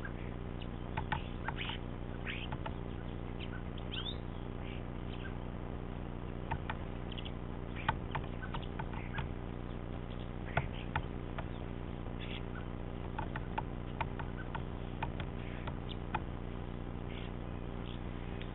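Great spotted woodpecker pecking at peanuts in a hanging log feeder: irregular sharp taps at uneven spacing, some louder than others, over a steady low hum.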